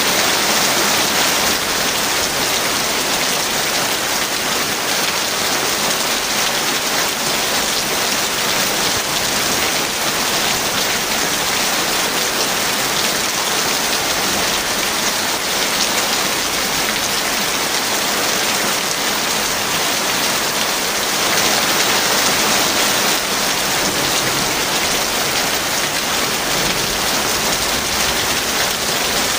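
Heavy rain falling steadily, a dense even hiss of drops, swelling slightly for a couple of seconds about three quarters of the way through.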